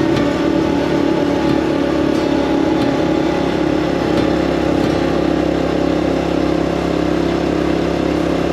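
Honda CT125 Hunter Cub's single-cylinder four-stroke engine running at a steady pace.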